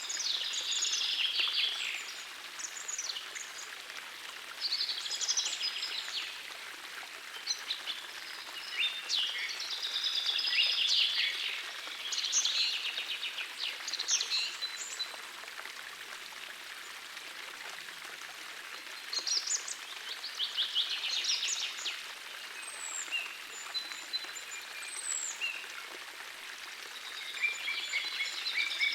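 Birds singing in short bursts every few seconds over the steady rush of a gentle forest stream.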